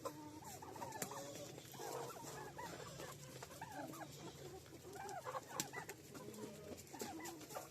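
Domestic chickens clucking, many short calls overlapping, with small scattered clicks and rustles.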